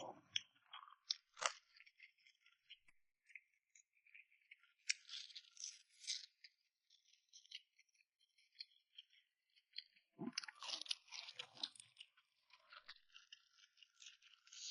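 Faint, close-up eating sounds: crunchy bites and chewing of a fried chicken cutlet. They come in four short spells of crackling, with quiet gaps between them.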